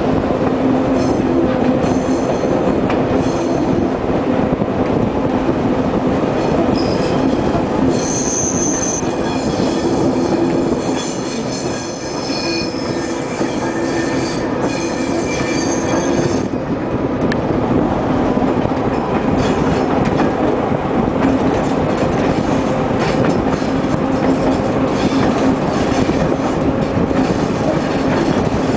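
Diesel passenger train running on the track, heard from aboard: a steady rumble and rattle of wheels on rails under a steady engine hum. High-pitched wheel squeal on the curves is strongest from about 8 to 16 seconds in.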